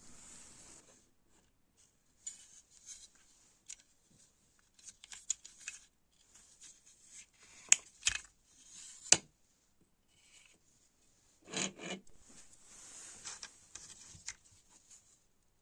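Intermittent scraping and rubbing strokes of hand work, with two sharp clicks about halfway through and a short knock soon after.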